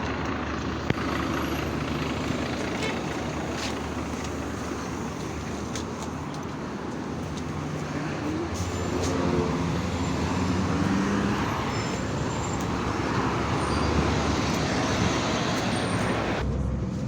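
Yutong ZK6128HG city bus running, its engine note shifting up and down over steady road noise, with a few short rattles and clicks.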